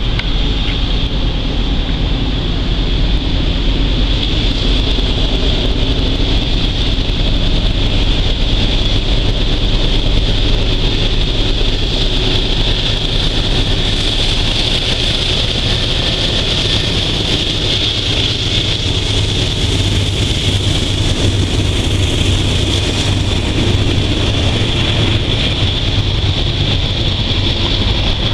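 Norfolk Southern diesel freight train passing: the locomotive's engine running as it draws near and goes by, then the freight cars rolling along the track. A steady high-pitched hiss runs underneath.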